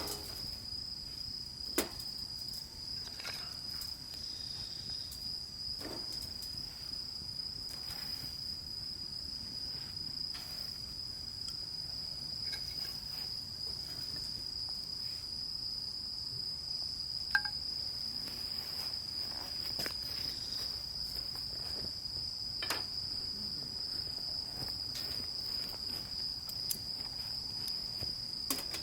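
Insects chirring in one steady, unbroken high-pitched drone, with a few sharp clicks and knocks from handling gear, the loudest about two seconds in and about two-thirds of the way through.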